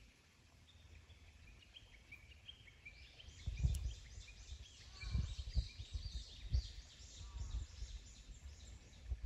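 Birds singing in the background: short high chirps at first, then a rapid, dense run of repeated high notes from about three seconds in. Several low thumps on the microphone stand out above them.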